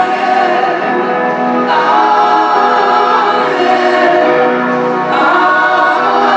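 Choir singing with long held notes, the chord changing about two seconds in and again about five seconds in.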